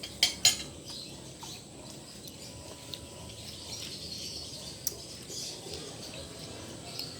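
A utensil clinks twice sharply against cookware about half a second in. Faint bird chirping follows over a low steady background hiss.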